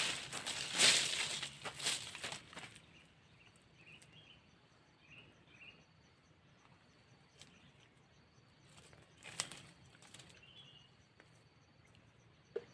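Loud noisy rustling bursts for the first couple of seconds, then faint short chirps from a sooty-headed bulbul, with a faint steady high insect-like ticking and another brief rustle near the middle.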